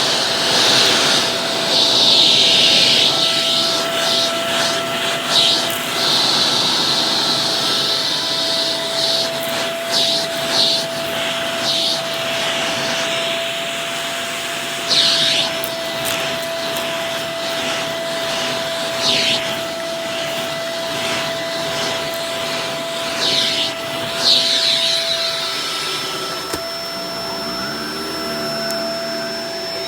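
Shark Professional Powered Lift-Away DLX (NV586) upright vacuum cleaner running: a steady motor whine under a rushing hiss of air that swells and fades, with several short surges of hiss.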